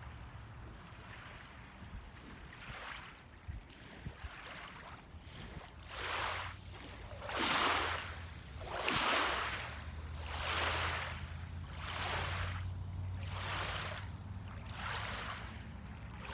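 Small waves washing onto a beach, a swell of wash about every one and a half seconds that begins about six seconds in, over a steady low rumble.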